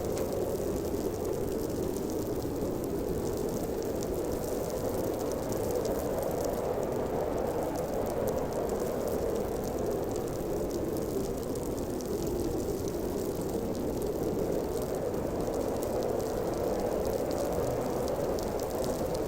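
Howling blizzard wind: a steady, low rushing noise that swells and eases slowly.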